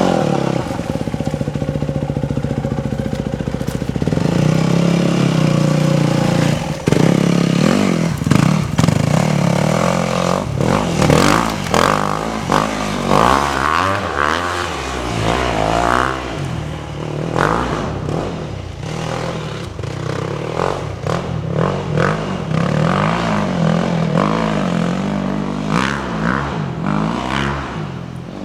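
Dirt bike engine running steadily for the first several seconds, then revved up and down over and over, fading near the end.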